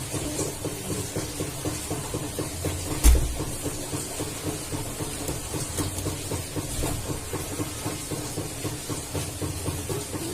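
Puter pelung dove cooing in a continuous, rapidly pulsing, rolling voice over a steady hiss, with one sharp thump about three seconds in.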